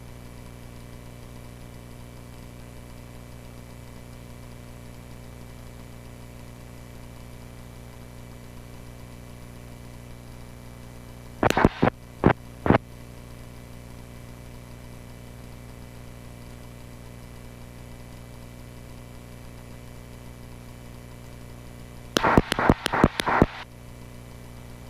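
Steady drone of a Cessna 140A's engine heard through the cockpit intercom, with two brief loud radio bursts, one about halfway through and one near the end.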